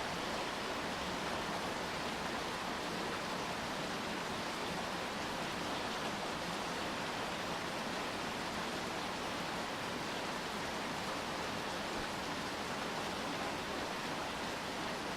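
Steady rainfall, an even hiss with no distinct drops or breaks.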